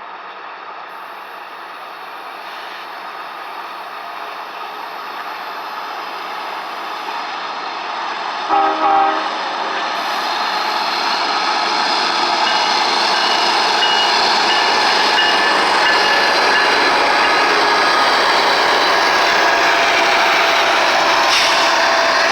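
Loaded freight train led by GE ES44DC diesel locomotives approaching and passing, its engine and wheel noise swelling over the first dozen seconds and then holding steady and loud. A short two-note horn sound comes about eight and a half seconds in.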